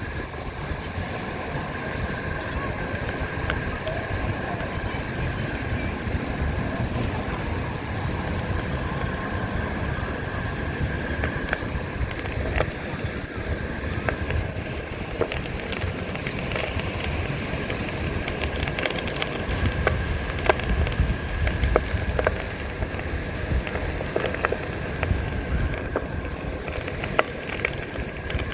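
Onewheel electric board riding along the beach, with its steady high motor whine under wind rumbling on the microphone and surf. From about halfway through, the tyre crunches over shells with many sharp clicks.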